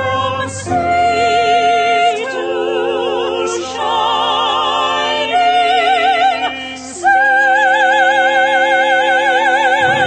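A classical solo voice singing slow, sustained notes with a wide vibrato, taking a quick breath between phrases. The last note is held for about three seconds near the end.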